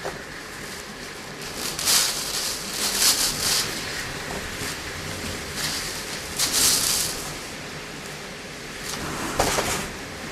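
Typhoon wind and rain: a steady rush of noise with several louder gusts swelling and fading, about two seconds in, around three seconds in, near the middle and near the end.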